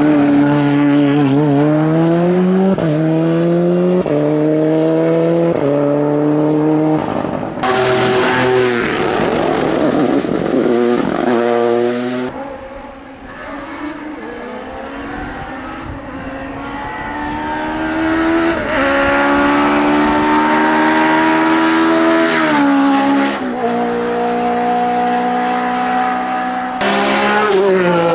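Race car engines at full throttle on a hillclimb, climbing through the gears, with the pitch rising and dropping back at each quick upshift. About eight seconds in a louder, rougher passage lasts some four seconds. After a quieter moment another car climbs through the gears.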